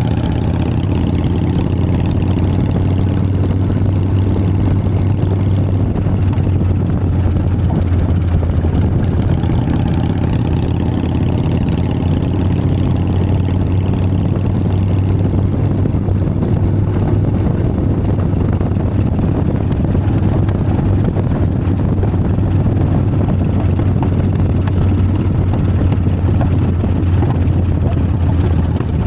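Harley-Davidson Sportster XLH's V-twin engine running at a steady pace while riding.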